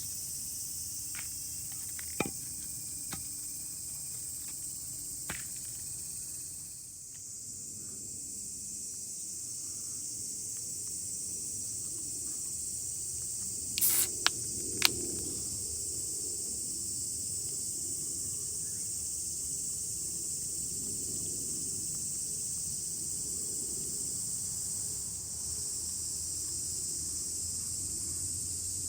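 Steady high-pitched chorus of insects in a summer forest, with a few sharp clicks and snaps scattered through it, the loudest short cluster about halfway.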